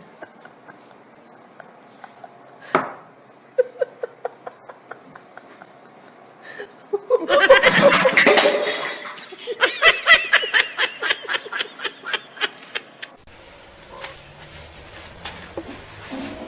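Person laughing loudly, breaking into rapid high-pitched giggles, after a few seconds of small clicks and taps.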